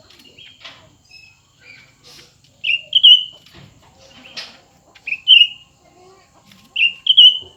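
Cucak ranting songbirds calling against each other in short, sharp chirps, mostly in pairs, repeated every second or two, with a few faint knocks in between.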